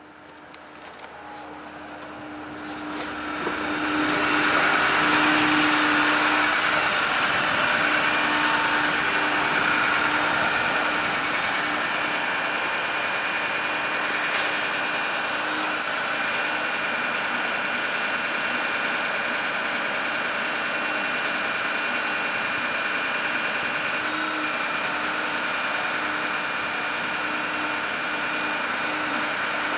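The bucket truck's engine and PTO-driven hydraulic system are running as the Altec AT37G boom is operated from the pedestal controls. The sound swells over the first few seconds and then holds as a steady engine hum with a whine on top.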